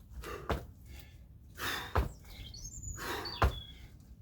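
Three landing thumps about a second and a half apart from kettlebell jump squats, with heavy, noisy breaths between the landings.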